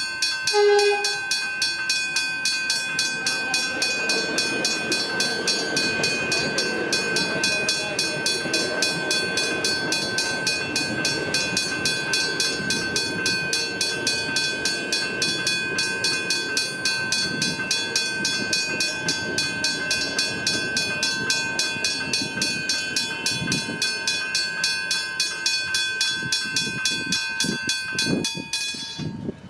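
Level-crossing bells, a Westinghouse hybrid bell ringing together with an electronic bell, strike rapidly and evenly while a train passes over the crossing with a rushing rumble of wheels on rail. A short two-tone horn sounds about a second in, and the bells cut off abruptly near the end.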